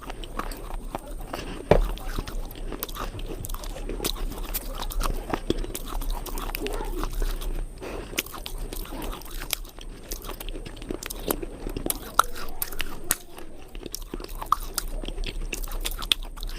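Crumbly cubes being crunched: a dense run of irregular crisp cracks and crumbling, with sharper snaps about 2 seconds in and about 12 seconds in.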